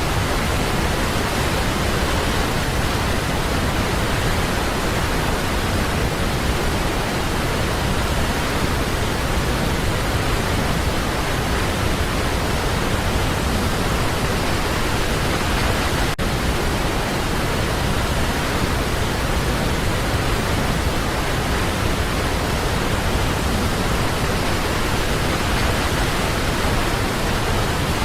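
Waterfall: a steady, unbroken rush of falling water, with a momentary dropout about sixteen seconds in.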